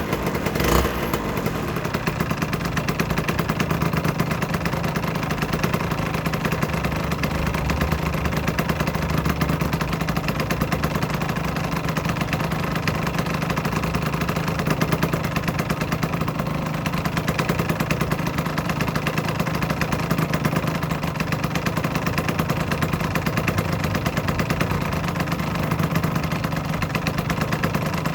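Aprilia RS125's single-cylinder two-stroke engine idling steadily, with a brief sharp clatter just under a second in.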